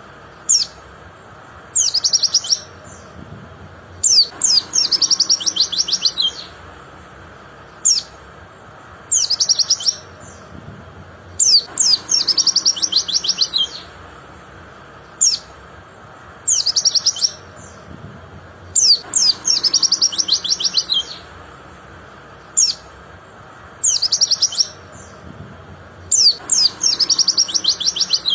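White-eye (pleci) singing: a short high chirp, then a fast, high run of notes, the phrase repeating about every three and a half seconds.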